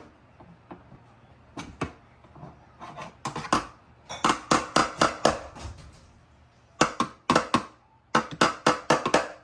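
Runs of sharp, rapid taps and knocks from a tool being banged against a truck. The longest run, about a dozen quick strikes, comes in the middle, with shorter runs near the end.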